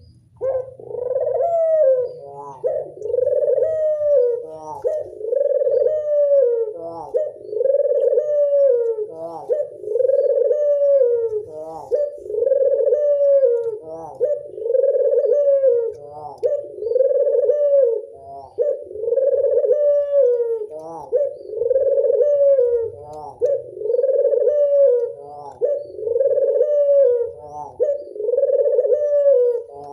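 Local puter dove (Indonesian domestic collared dove) singing its classic cooing song, a rounded rising-and-falling coo repeated steadily about every two seconds, with short higher notes between the coos.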